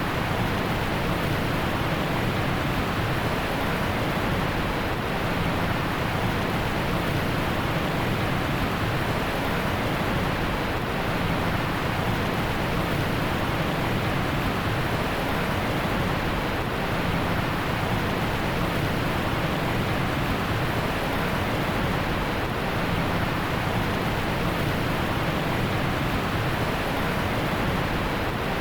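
Heavy rain falling as a steady, dense hiss with no distinct drops.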